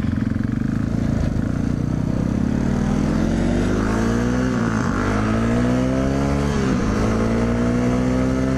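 Motorcycle engine accelerating through the gears: its pitch climbs, drops sharply at upshifts about five and seven seconds in, and climbs again, with wind rushing over the microphone.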